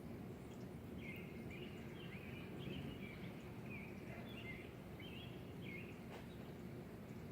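A songbird singing a string of short, quick chirpy phrases for about five seconds, starting about a second in, over steady low outdoor background noise.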